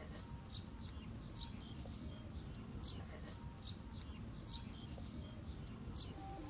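Small birds chirping: short, high chirps repeating about once a second over a steady low background rumble.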